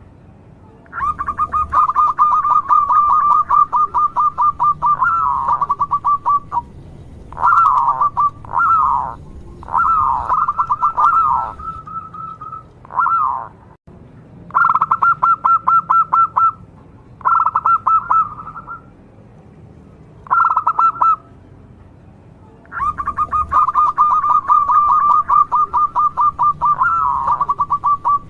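Zebra dove cooing: phrases of fast, staccato trilled notes held at one pitch, some short and some several seconds long, repeated with brief pauses between them.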